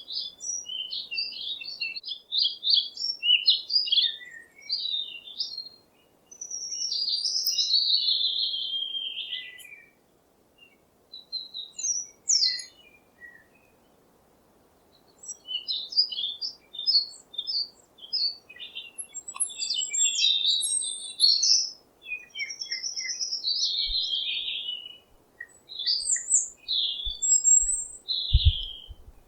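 Songbirds chirping and singing: quick runs of high chirps and longer warbling phrases, with a pause of a few seconds around the middle. A few low thumps come near the end.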